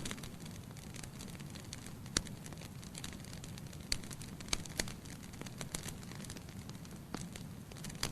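Logs burning in a fireplace: a steady low rush of flames with sharp crackles and pops scattered through it, a few louder snaps about two seconds in and again around four to five seconds in.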